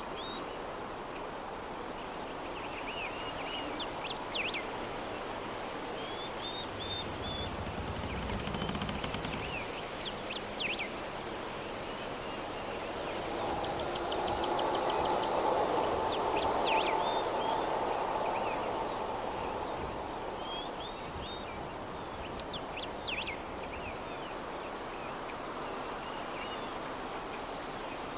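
Soft, steady breeze that swells into a stronger gust about halfway through, with small birds chirping on and off in short high calls.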